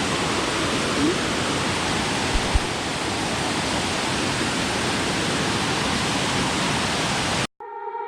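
Waterfall's rushing water: a steady, even hiss. It cuts off abruptly near the end, where music starts.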